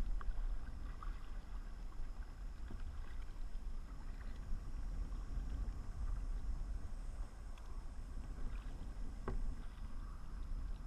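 Kayak paddling: the paddle dipping and dripping, with small splashes and ticks over a low steady rumble, and one sharper knock about nine seconds in.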